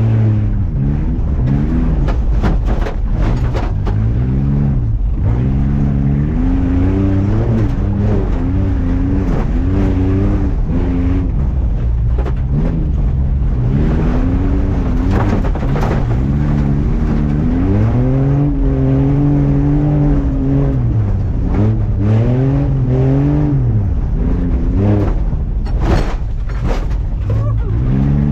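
Off-road race truck's engine revving hard, its pitch climbing and dropping again and again as the throttle is worked, with scattered knocks and rattles.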